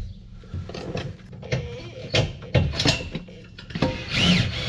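Hand tools working on the caravan's water-tank mountings: a run of irregular metallic clicks and knocks as a fastener is undone, with two short high squeaks near the end.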